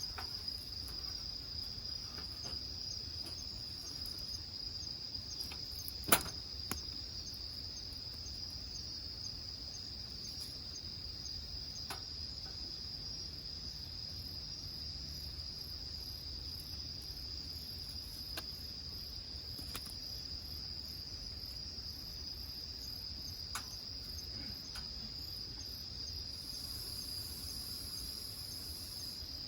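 A steady high-pitched chorus of crickets trilling without a break, over the scattered sharp pops of burning firewood crackling in a wood grill, the loudest pop about six seconds in.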